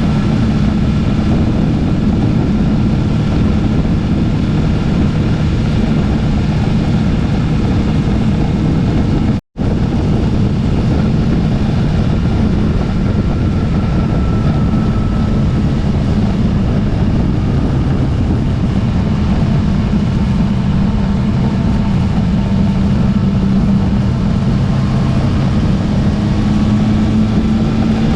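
Motorcycle engine running at a steady cruising speed with heavy wind rush over the microphone, recorded on the moving bike. The sound cuts out for an instant about nine seconds in, then carries on unchanged.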